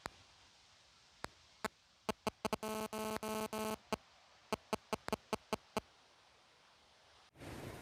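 Edited-in electronic sound effect: a run of sharp, irregular clicks, with four short buzzy tones in quick succession about three seconds in. Outdoor ambience comes back near the end.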